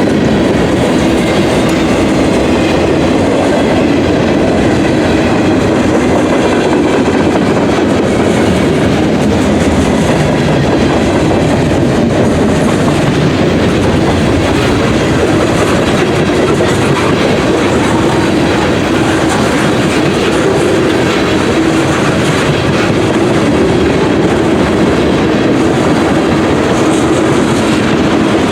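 Freight cars of a CSX manifest train rolling past, a steady loud rumble of steel wheels on the rails that runs on without a break.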